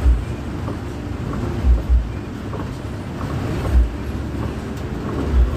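Intercity bus on the move: a steady rumble and hiss of engine and road noise, with a few short, dull low thumps spaced about one to two seconds apart.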